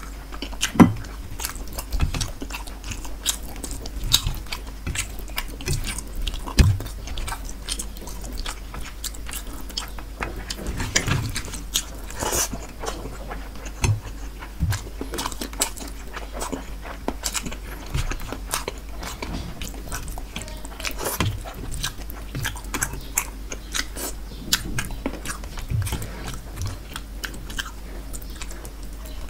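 Close-miked chewing and biting of rohu fish curry and rice eaten by hand, with irregular crunches and wet clicks throughout.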